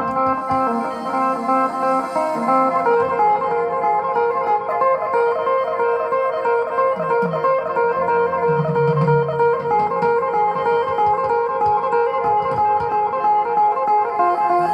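Electric-acoustic phin (Isan Thai lute) plucked through its pickup, playing a lively melody over steady drone strings, with accompanying backing music.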